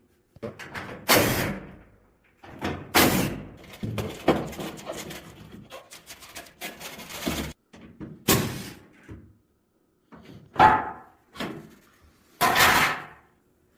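Several loud bangs and knocks a few seconds apart, with lighter clattering between them.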